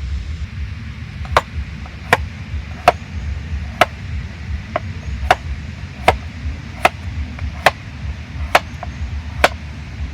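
Knife chopping on a cutting board in slow, even strokes, about ten of them a little under a second apart, over a steady low rumble.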